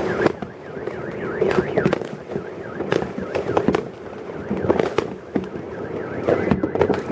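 Fireworks going off in quick, uneven bangs, with a car alarm wailing up and down beneath them.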